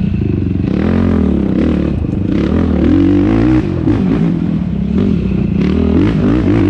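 Yamaha YFZ450R quad's single-cylinder four-stroke engine racing, revving up and falling back again and again as the throttle is worked, with clattering knocks mixed in.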